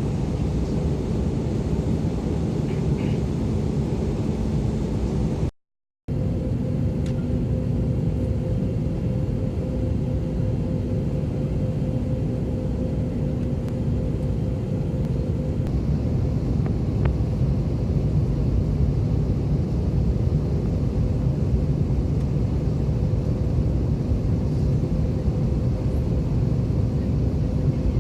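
Steady cabin rumble of an Airbus A320 airliner in flight, with a faint steady hum over it. The sound drops out abruptly for about half a second about five and a half seconds in, then comes back unchanged.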